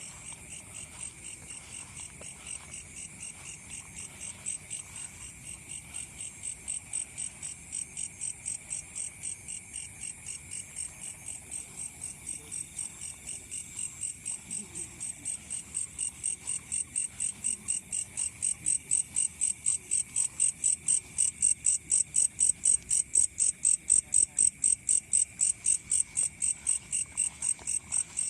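Crickets chirping in a steady pulsing rhythm of about two to three pulses a second, over a continuous high insect drone; the chirping grows louder over the second half.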